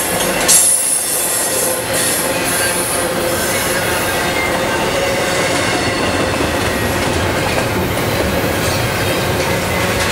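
Double-stack container freight train rolling past close by: a steady loud rumble of steel wheels on rail with a high, sustained wheel squeal. There is a sudden louder, sharper sound about half a second in.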